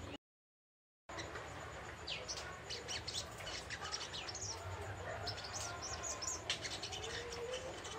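A young wild-caught sogok ontong bird twittering: quick runs of short, high chirps, after a brief gap of silence near the start.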